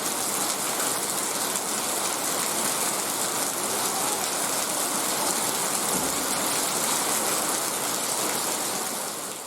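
Heavy rain falling steadily, a continuous even hiss that fades out near the end.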